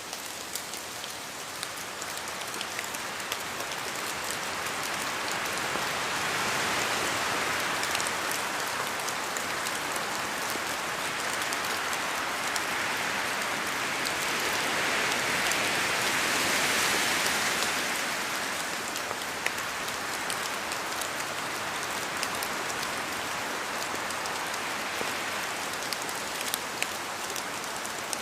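Steady rain in a forest with wind, rising and falling in slow gusts, and scattered sharp drop impacts throughout.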